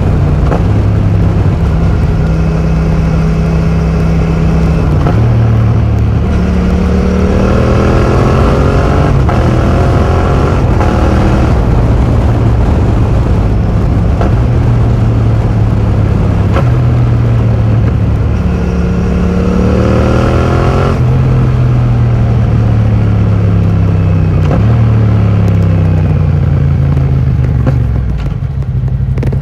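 Yamaha MT-07's 689 cc parallel-twin engine through an Akrapovic full titanium exhaust with the dB killer removed, riding along under load. Twice the engine pitch rises for several seconds and then cuts off abruptly, between stretches of steady running.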